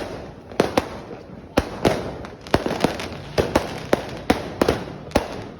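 Fireworks going off on New Year's Eve: a rapid, irregular run of sharp bangs of varying loudness, over a continuous din of further bursts.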